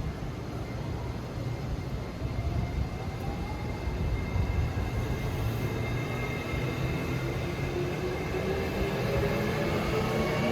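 E653 series electric multiple unit pulling away, its traction motors and inverter whining in several tones that rise steadily in pitch from about three seconds in as it accelerates, over a low rumble of the running gear.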